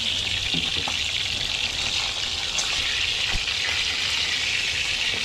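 Dried milkfish and eggplant frying in hot oil in a pan: a steady sizzling hiss with a few faint crackles.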